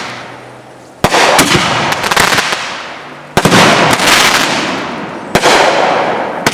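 Consumer aerial fireworks going off: three loud bangs about two seconds apart, each followed by a crackling noise that fades away over about two seconds.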